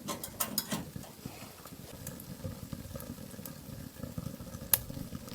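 Faint, steady crackling over a low rumble, with one sharper click near the end.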